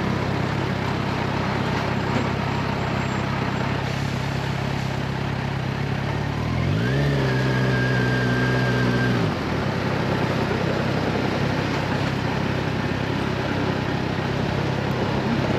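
Motorcycle engine running at a steady cruise with heavy wind rush. About seven seconds in, an extra engine-like tone rises quickly in pitch, holds steady for about two seconds, then cuts off suddenly.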